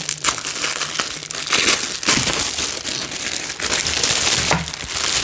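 Plastic packaging crinkling and crackling as it is handled and pulled open, in irregular rustles.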